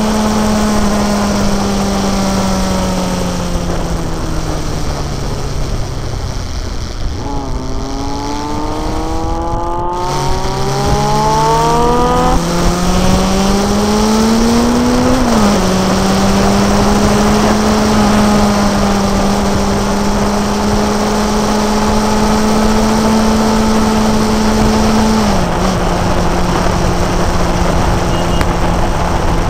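Motorcycle engine with wind rush while riding. The engine note falls as the bike slows into a curve, then climbs through the gears with three upshifts and settles to a steady cruise. Its pitch steps down slightly near the end.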